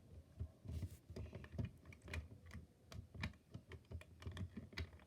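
Irregular light clicks and taps from a small model car being handled, a few per second with a handful of sharper ones, as its steerable wheels are moved.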